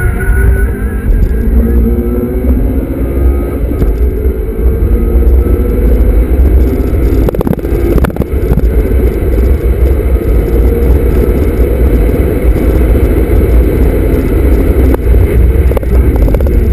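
Honda Civic Type R FD2's four-cylinder engine heard from inside the cabin, pulling hard with its pitch climbing, over a heavy low road rumble. There is a brief clunk of a gear change about eight seconds in, after which the engine keeps pulling.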